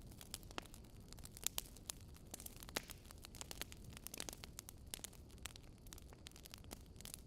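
Fire crackling: frequent irregular sharp pops and snaps over a faint, steady low rumble.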